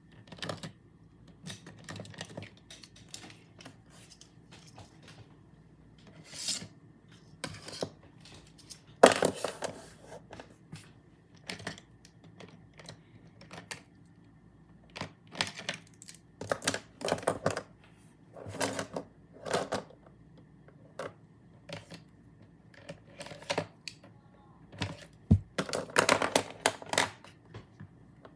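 Pens, pencils and other stationery being handled and set down while a pencil case is sorted: irregular clicks, clacks and short rubbing sounds, with louder clusters about a third of the way in and near the end.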